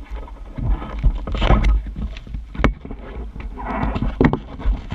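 Wind buffeting the microphone aboard a sailing dinghy, with sharp knocks from the boat and water noise.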